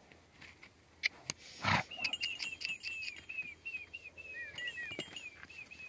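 A bird calling in a fast run of short, falling whistled notes, about five a second, starting about two seconds in and going on steadily. Just before it comes a short, loud rush of noise, the loudest moment, after a couple of faint clicks.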